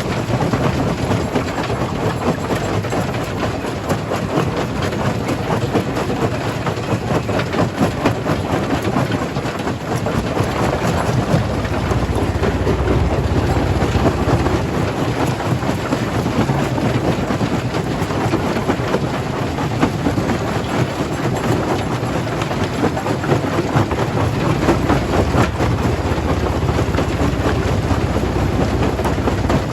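Stone jaw crusher crushing rock: a steady, loud rumble filled with a dense, continuous clatter of stone breaking and knocking in the machine.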